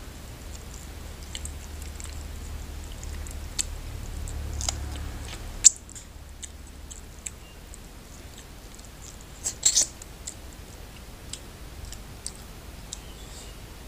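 Close-miked chewing and wet mouth sounds of eating mutton curry and rice by hand, with scattered sharp clicks, one loud snap near the middle and a quick cluster of louder clicks later on. A low hum underneath stops abruptly near the middle.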